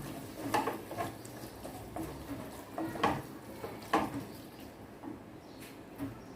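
A utensil stirring and scraping a thick onion-tomato masala in a cooking pan, with a few irregular clinks and scrapes against the pan, fainter toward the end.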